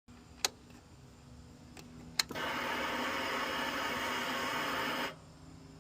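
A Ducati Panigale V4R being switched on: two sharp clicks, then a small electric motor whirs steadily for about three seconds and stops abruptly. This is typical of the fuel pump priming before the engine is started.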